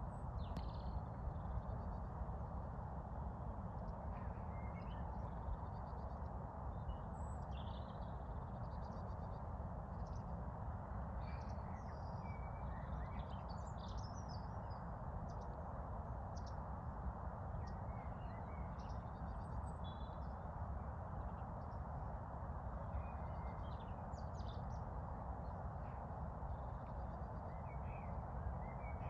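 Songbirds chirping and calling in short scattered bursts over a steady low background rumble.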